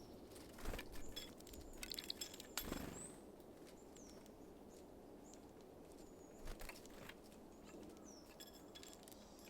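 Small birds at a seed feeder: scattered light taps and clicks, bunched in the first three seconds and again about six and a half seconds in, with several faint, short high call notes that slide up or down in pitch.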